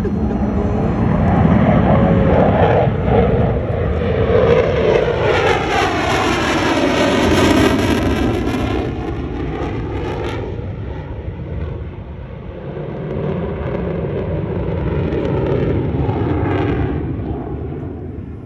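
Fighter jet flying past, its engine noise loud and continuous, swelling and easing, then fading away near the end.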